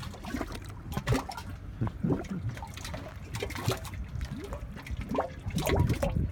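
Mud volcano bubbling: gas bubbles bursting through wet mud as an irregular run of short plopping bloops, several a second.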